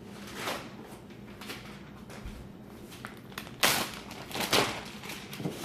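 Paper towels rustling and patting as wet, thin-sliced potato slices are blotted dry, in several short bursts, the loudest a little past halfway.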